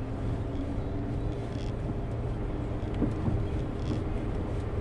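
Minivan driving slowly over ballast-strewn, potholed ground, heard from inside the cabin: a steady low rumble of engine and tyres, with a few jolts about three seconds in and again at the end.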